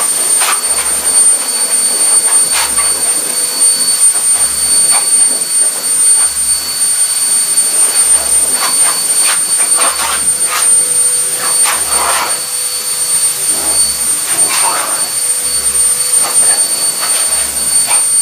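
Hair dryer blowing steadily, with a constant high whine over its rushing air.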